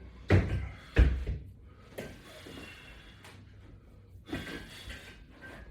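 Two dull thuds about a second apart, then quieter knocks and shuffling as someone shifts position and handles exercise gear.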